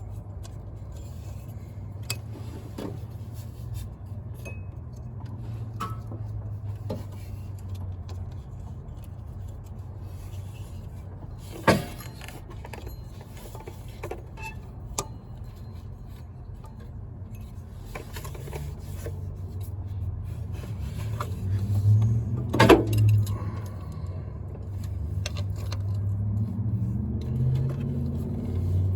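Scattered metallic clinks and knocks of tools and parts being handled in a car's engine bay, two of them sharp and loud, over a steady low rumble that swells in the last third.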